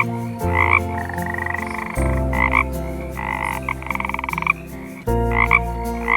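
A frog croaking: short croaks, mostly in pairs, and two longer, rapidly pulsing croaks, one about a second in and one around four seconds. Steady low tones sit underneath and change pitch every second or two.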